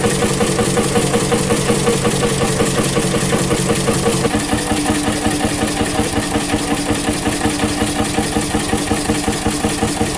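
Vintage engine running with a steady, rhythmic beat. About four seconds in, the tone of the running changes.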